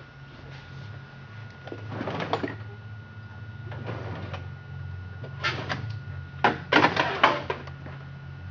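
Handling noise: several short bursts of clattering and rattling as things are moved about on a workbench, the loudest cluster about two thirds of the way in, over a steady low electrical hum.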